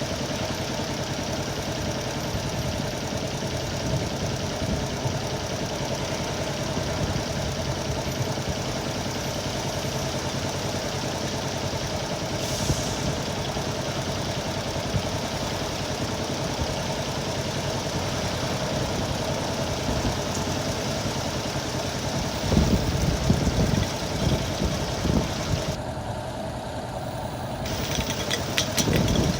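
Honda Little Cub's small single-cylinder four-stroke engine running steadily under way, with a rushing haze of wind noise over it; about three quarters of the way through, louder low rumbling gusts buffet the microphone.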